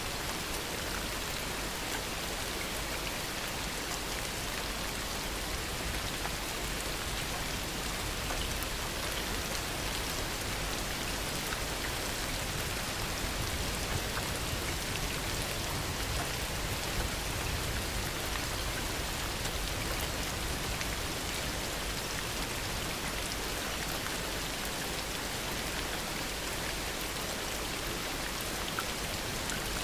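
Heavy rain falling steadily: an even, dense hiss of countless drops that does not let up.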